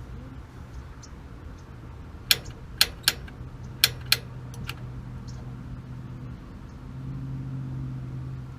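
Piezo igniter on a gas water heater's pilot assembly clicking six times in quick, uneven succession while the pilot is being lit, over a steady low hum that gets louder near the end.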